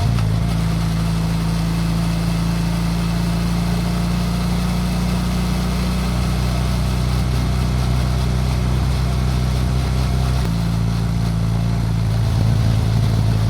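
BMW F800GS Adventure's parallel-twin engine running steadily while riding. Its note shifts about ten seconds in.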